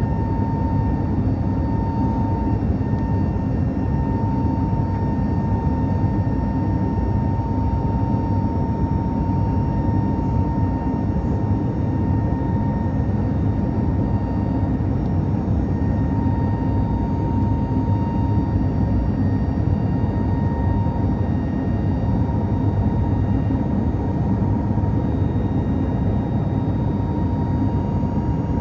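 Airbus A320 cabin noise in flight shortly after takeoff: a steady rumble of engines and airflow with a thin, constant whine over it.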